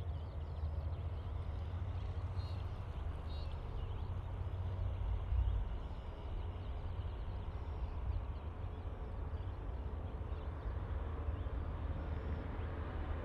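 Steady low rumble of distant jet engines from an Airbus A380 early in its takeoff, with faint bird chirps above it.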